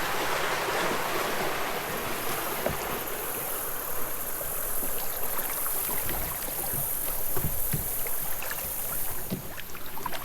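Creek water rushing around a kayak, easing after about two seconds into a quieter wash broken by scattered small splashes and drips from the paddle.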